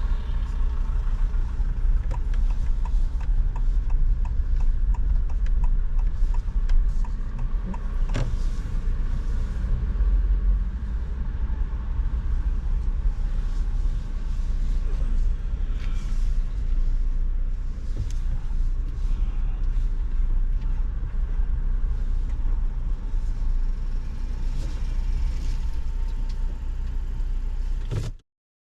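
Steady low rumble of a car in motion, with engine and road noise picked up inside the cabin. There are light regular ticks during the first several seconds, and the sound cuts off suddenly near the end.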